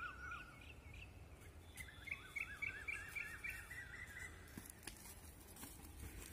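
Bird calls in quick runs of short repeated chirps, about four a second: one run fading out just after the start and a longer, higher run from about two to four seconds in, over a steady low outdoor rumble.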